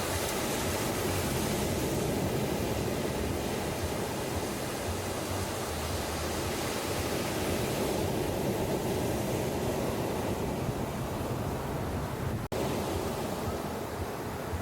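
Ocean surf washing steadily onto a beach, a continuous rushing hiss of breaking waves. The sound cuts out for an instant near the end, a splice between recordings.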